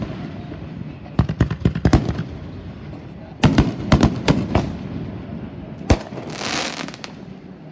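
Fireworks going off: two rapid clusters of sharp bangs, a single bang about six seconds in, then a short hissing crackle.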